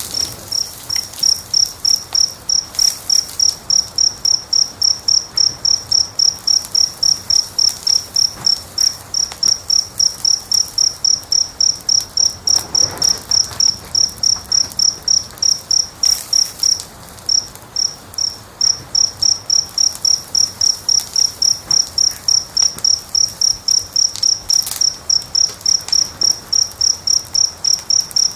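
A cricket chirping steadily in an even run of short, high chirps, about three a second, with a brief pause past the middle. Under it, a wood fire crackles faintly, with an occasional louder pop.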